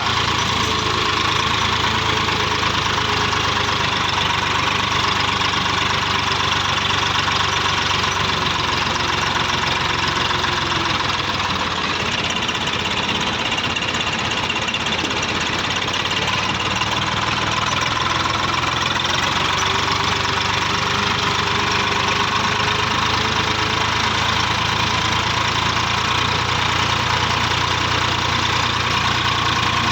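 Swaraj 855 tractor's three-cylinder diesel engine running steadily while pulling a cultivator through a field.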